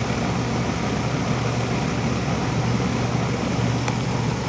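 A heat pump's outdoor unit (a 2005 Amana 13 SEER 4-ton, R-22) running with a steady low hum while in its defrost cycle. A faint tick sounds near the end.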